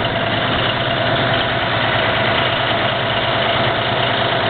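Versatile tractor's diesel engine running steadily at an even pace.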